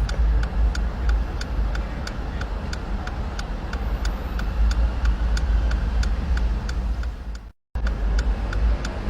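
Steady low rumble of road traffic with wind on the microphone, under an even ticking several times a second.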